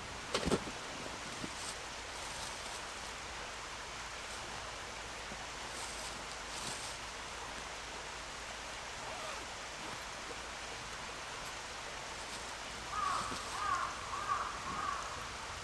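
Steady outdoor background hiss with a single sharp knock just after the start, then a bird calling in a quick run of short, wavering chirps near the end.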